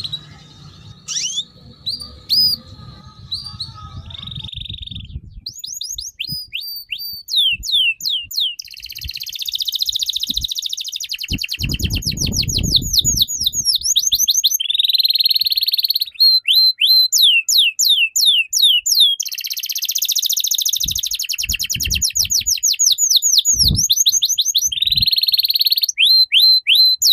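A songbird singing loudly and almost without pause: fast runs of sharp sweeping notes alternating with buzzy trills. A few low thumps and a brief rumble sound under the song.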